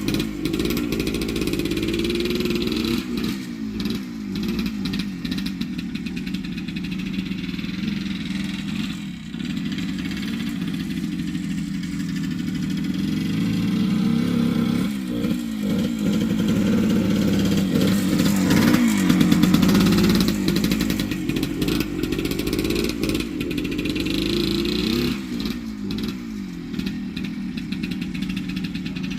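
1978 Yamaha DT100's single-cylinder two-stroke engine under riding load, its pitch rising and falling again and again as the throttle opens and closes. The rider finds the carburettor is giving too much fuel, so it is running rich.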